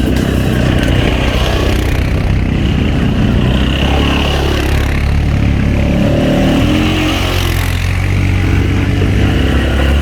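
Quad bike (ATV) engine running steadily as it is ridden off-road.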